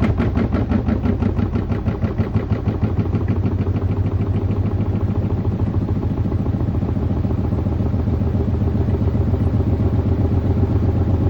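LG F4C510GBTN1 front-loading washing machine on its spin cycle, shaking and knocking against the floor in a rapid, even rhythm over a steady motor hum. The knocking speeds up and blurs into a continuous rattle after about three seconds. This is the machine jumping during spin.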